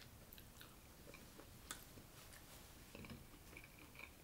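Faint chewing and mouth sounds of a person eating soup, with a few soft clicks, the sharpest about a second and a half in.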